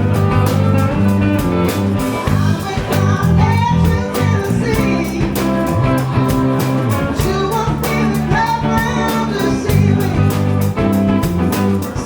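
Band playing a blues-rock number: singing over guitar and bass, with drums keeping a steady beat.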